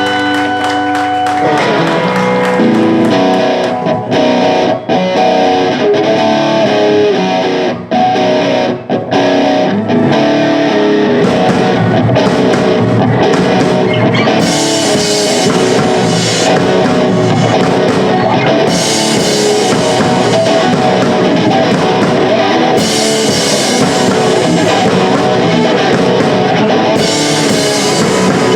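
Live punk rock band playing an instrumental passage on electric guitars and a drum kit. A held chord gives way to the full band about a second and a half in, with a few brief stops in the first ten seconds, then a steady driving part with long stretches of crashing cymbals.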